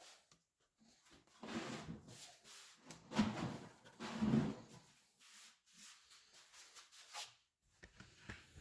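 Quiet handling sounds: irregular rubbing and scraping of objects, with a few light knocks and clicks.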